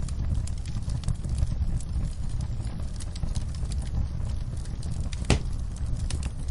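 Wood fire crackling in a fireplace: a steady low rumble of flames under frequent small, sharp pops, with one louder pop about five seconds in.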